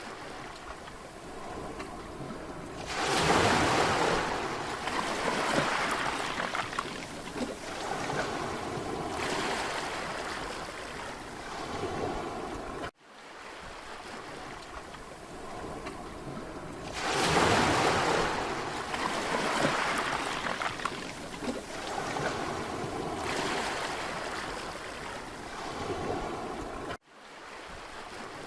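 Sea waves breaking and washing up on a beach: two big surges about fourteen seconds apart, each followed by a long hiss as the water draws back. The sound cuts out for a split second twice.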